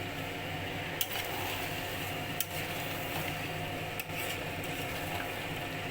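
A steady mechanical hum with a few fixed tones, broken by three faint clicks about a second and a half apart.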